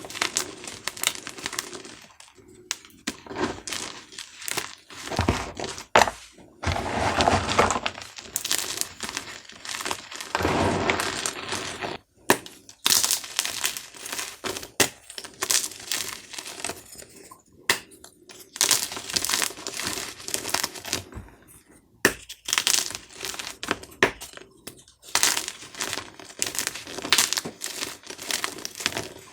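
Dyed gym chalk cubes being crushed: runs of crisp, crunchy crackling, broken by several brief pauses between crushes.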